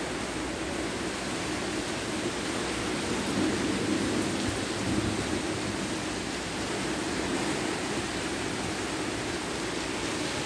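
Heavy rain pouring steadily on foliage and roofs: a dense, even hiss that swells slightly a few seconds in.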